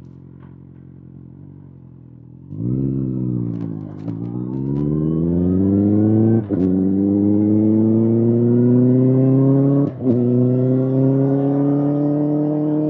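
Kawasaki ZX-6R inline-four through an SC-Project SC-1R exhaust, idling, then opening up about two and a half seconds in. It pulls away with its pitch climbing steadily, cut by two brief breaks for upshifts.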